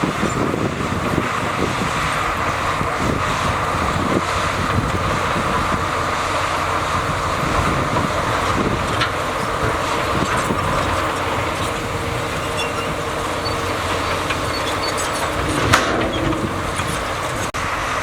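Heavy diesel earthmoving machinery, a bulldozer or dump truck, running steadily under work. There is a single sharp clank about sixteen seconds in.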